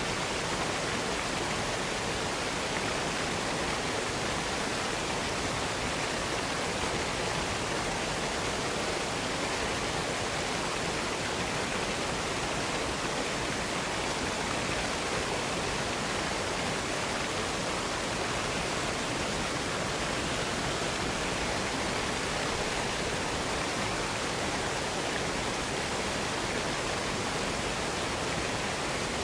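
Waterfall running: a steady, unbroken rush of falling water that never changes in level.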